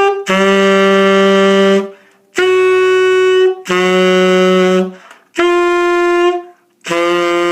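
Tenor saxophone playing a series of held notes, each a second or more long, separated by short breaks. The octave key is held down while each note is lipped down to sound an octave lower, an exercise for lowering the jaw, opening the throat and building a warmer, thicker tone.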